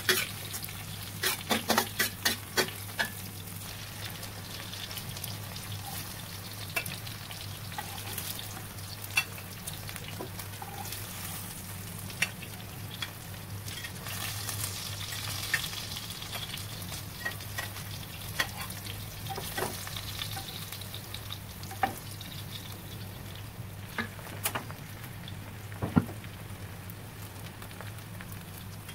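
Sliced onions sizzling in oil in a stainless steel wok, stirred with a metal spatula that scrapes and clinks against the wok: a quick run of clinks in the first few seconds, then scattered ones, the sharpest near the end. A steady low hum runs underneath.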